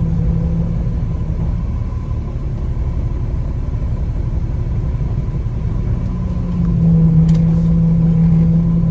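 Semi truck's diesel engine running with a steady low rumble during slow manoeuvring; a steady drone in it fades about a second and a half in and comes back louder near the end. A brief click sounds about seven seconds in.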